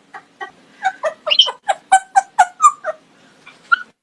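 African grey parrot mimicking laughter: a quick run of short pitched 'ha' pulses, several a second, growing louder toward the middle and stopping about three seconds in.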